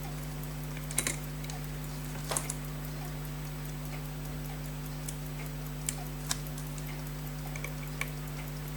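Pocket watch movement ticking rapidly and faintly, as if the balance is in and running, with a few louder sharp metal clicks of small tools on the watch parts and a steady low electrical hum underneath.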